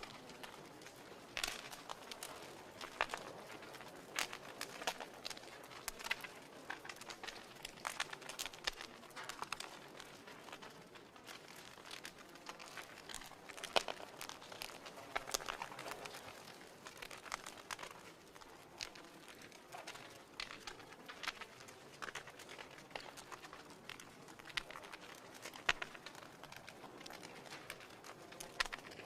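Wood fire crackling in a fireplace: irregular sharp pops and snaps, several a second, over a soft hiss of burning.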